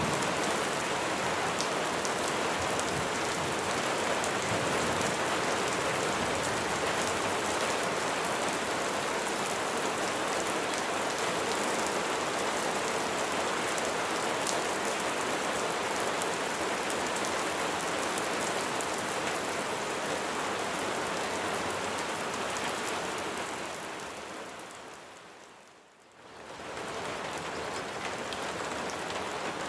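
Steady rain falling on surfaces, an even hiss with fine patter. About twenty-four seconds in it fades away almost to silence, then swells back up within a couple of seconds.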